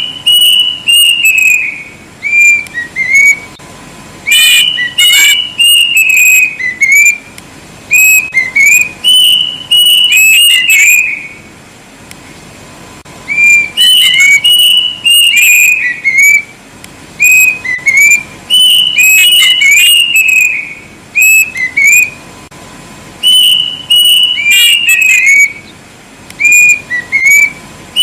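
Kedasih, a small cuckoo, singing very loud, shrill whistled phrases. Each phrase is a quick run of rising and falling notes lasting a second or two, repeated every couple of seconds with short pauses between.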